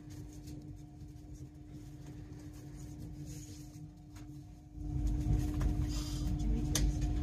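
Interior sound of a Great Western Railway Class 800 train in motion: a steady hum over a low running rumble. About two-thirds of the way through, the rumble gets clearly louder and stays up.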